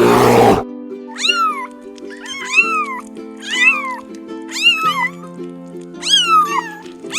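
Domestic cat meowing over and over, six rising-then-falling meows about a second apart, over steady background music. A rougher, roar-like sound cuts off in the first half second.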